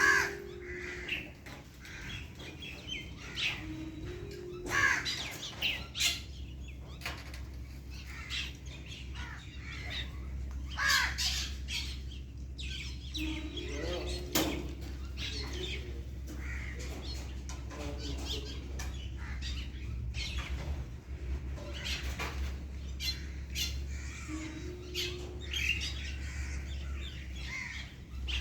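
Birds calling, with many short chirps and squawks scattered through, over a steady low hum.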